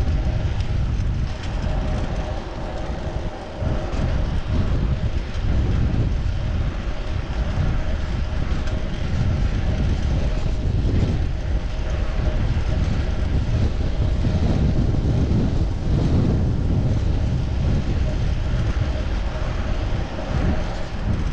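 Wind rushing over a chest-mounted action-camera microphone while riding a bicycle, with steady road and tyre noise underneath; the low rumble swells and dips.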